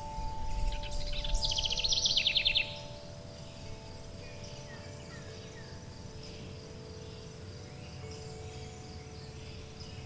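A songbird's rapid trilled song about half a second in, lasting about two seconds and the loudest thing, followed by a few faint chirps. Under it, wind chimes hold several long ringing notes that come and go, with a faint steady high hiss and a low rumble.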